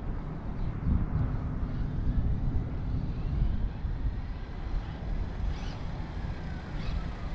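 Wind buffeting the microphone over a low outdoor rumble. Near the end, a faint whine falls in pitch.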